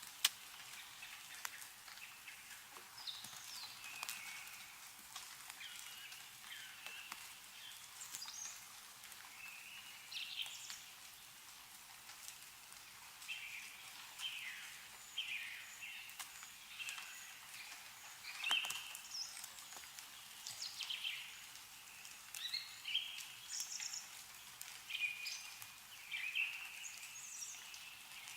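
Small songbirds chirping and twittering over and over, with scattered drips of meltwater from snow on the trees ticking down.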